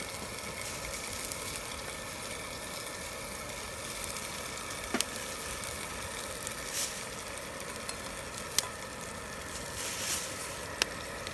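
Food sizzling steadily on a hot iron griddle, with a few sharp pops.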